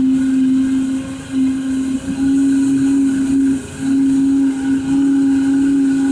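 Homemade CNC machine's motors running with a steady, pitched whine that breaks off briefly about once a second, as the axis moves stop and restart.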